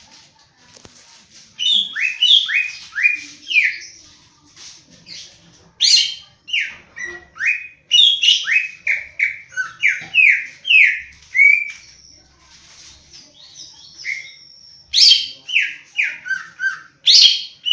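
Cucak ijo (green leafbird) singing: bursts of loud, quick whistled notes, each sliding down in pitch, repeated several times a second in phrases separated by short pauses.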